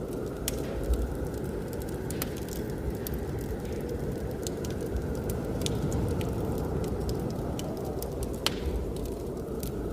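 Wood fire crackling with scattered sharp pops, the loudest near the end, over a steady low rush of blizzard wind.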